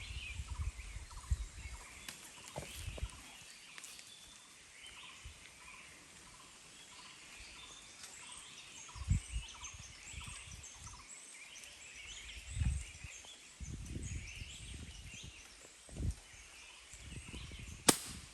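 Small forest birds chirping and twittering all through, with a few dull low thumps and one sharp click just before the end.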